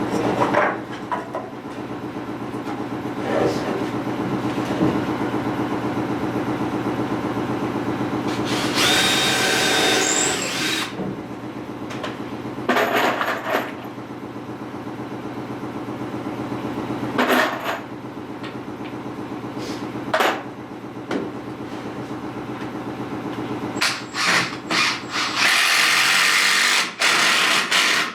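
Power drill driving screws into the wooden corner braces of a frame, in several bursts: two long runs of about two seconds, one about nine seconds in and one near the end, with shorter spurts between. A steady mechanical hum runs underneath.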